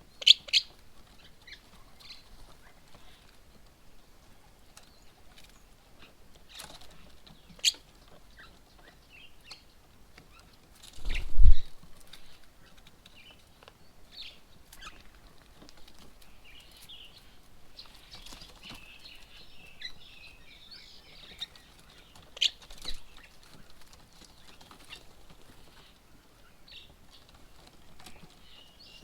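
Birds at a feeding table: scattered sharp chirps and a spell of twittering chatter. About halfway through there is one loud low thump.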